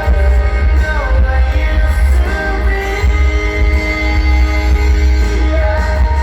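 Live concert music played loud through a venue's PA, with heavy bass and a sung vocal line held over the backing track.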